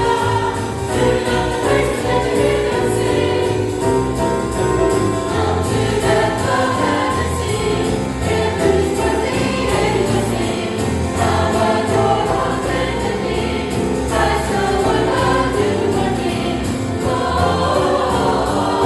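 Church choir singing a jazz-style Christmas song over instrumental accompaniment with a bass line.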